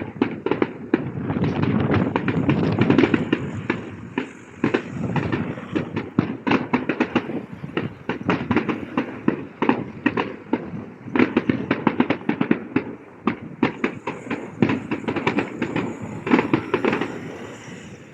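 Fireworks display: heavy booms in the first few seconds, then rapid crackling bursts of many small shells, with a last flurry of cracks near the end before it thins out.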